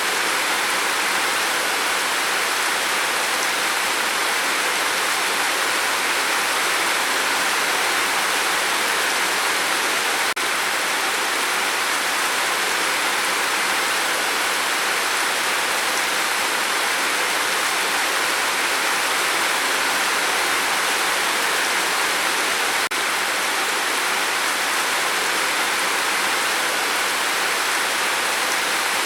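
Steady rain falling, a dense, even hiss without distinct single drops.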